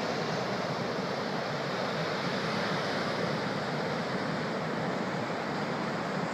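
Pacific surf from a big swell breaking along the beach: a steady, even wash of noise.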